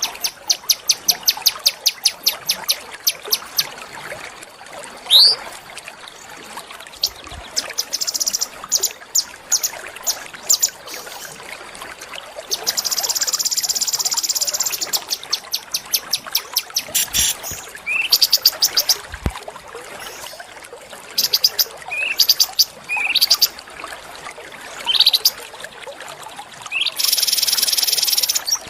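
Small songbirds singing: fast runs of high, sharp chirps mixed with upward-sweeping whistled notes, and two long buzzy trills, one a little before the middle and one near the end.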